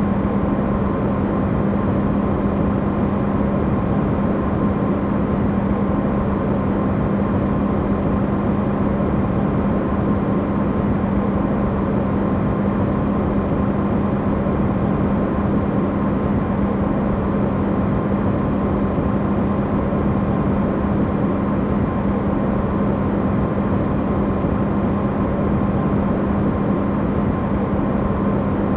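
Electrolux refrigerator running, recorded amplified: a steady, unchanging hum with a low tone and a fainter higher whine over a dense noise.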